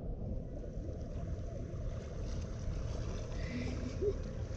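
Steady low rumble of wind on the microphone mixed with water at the shoreline.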